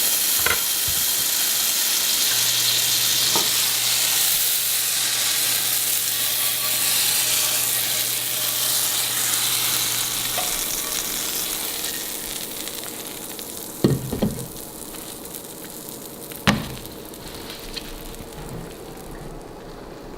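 Food sizzling in a frying pan: a steady hiss that fades away over the second half. A faint low hum runs for several seconds early on, and two sharp knocks come about two and a half seconds apart in the last third.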